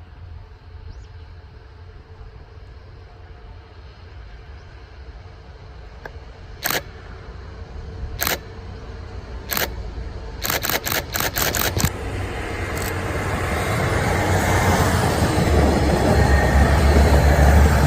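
Camera shutter clicks: three single shots a second or so apart, then a quick burst of about seven. Then a rising rumble as a KiHa 110 series diesel railcar train approaches, growing louder toward the end.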